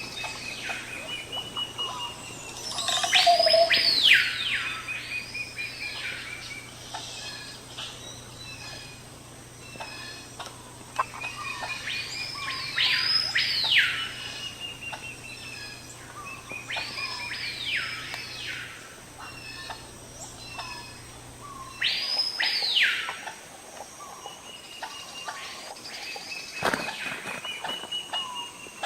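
Wild forest birds calling: a loud call that sweeps up and back down, usually given twice in quick succession and repeated every few seconds, with rows of short quick notes from other birds between. A faint low hum stops about two-thirds of the way through.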